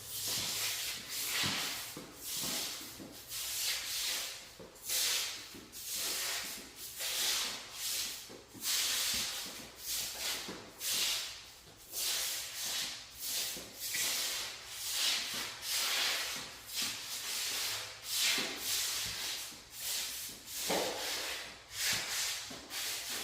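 Shoe soles scuffing and sliding across a new ceramic tile floor in a long run of scrapes, roughly one a second, as a foot is dragged over the tile edges to check whether they sit level.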